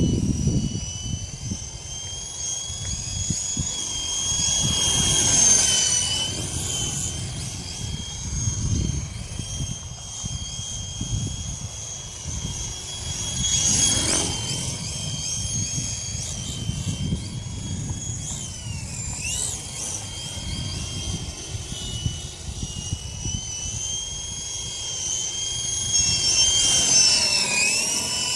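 FX070C small electric RC helicopter in flight: a steady high-pitched motor and rotor whine that briefly dips in pitch twice, about two-thirds of the way in and near the end. Gusty wind buffets the microphone with a low rumble throughout.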